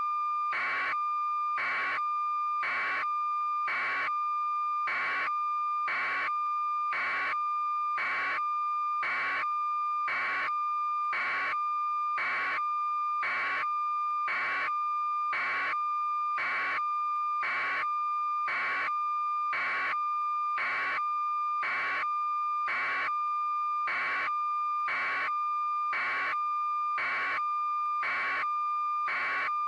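An electronic tone sounding steadily, with a short beep pulsing a little under once a second at an even rate.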